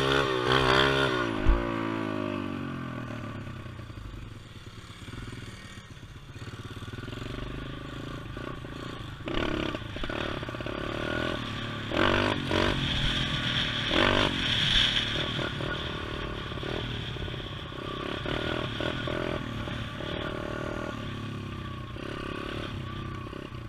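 Pit bike engine revving. It is loud at first, with a sharp knock about a second and a half in, and its pitch drops off as it eases off or moves away. Quieter revs then rise and fall several times.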